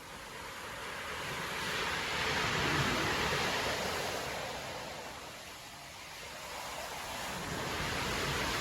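Storm surf breaking on a beach: a wave swells to a crash, loudest about three seconds in, then washes back and fades, and a second wave builds near the end.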